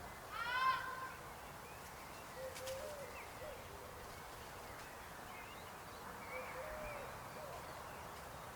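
Frogs croaking: a loud call about half a second in, then fainter short croaks around two and a half and six and a half seconds in, over a steady faint background.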